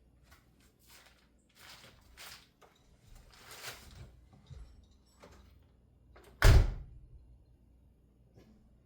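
Faint clicks and rustling, then a single loud thunk about six and a half seconds in as the door of the 1989 Oldsmobile Toronado Trofeo is shut.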